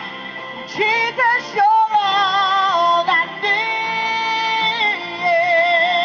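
A woman singing a slow worship song over instrumental backing, holding long notes with vibrato and sliding between them.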